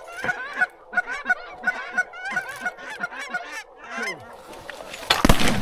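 Geese honking over and over in short, quick calls, then a rapid volley of shotgun fire breaks out near the end.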